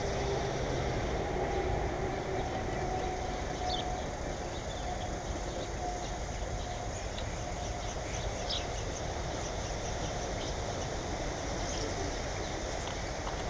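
Steady low rumble of a vehicle engine, with a few brief, faint bird chirps.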